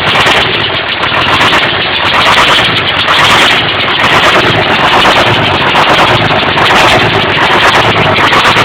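Volvo TL389 truck's diesel engine running just after a cold start, a loud, steady rapid clatter of firing knocks.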